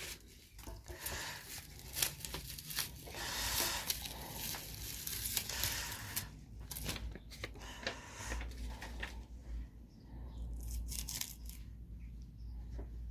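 Masking tape being peeled off a freshly spray-painted metal piece in repeated tearing rips, fading after about seven seconds.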